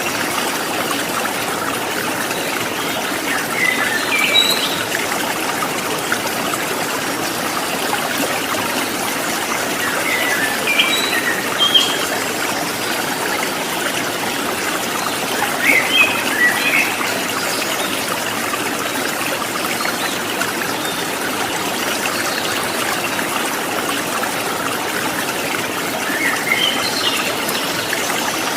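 Steady trickling and babbling of running water, with short bursts of bird chirps breaking in a few times.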